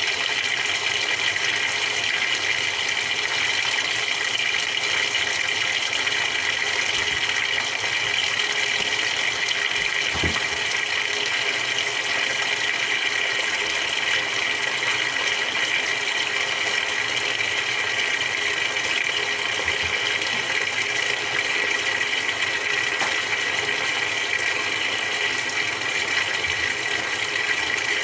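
Samsung 6.5 kg top-loading washing machine with water rushing through it in a steady, unbroken hiss.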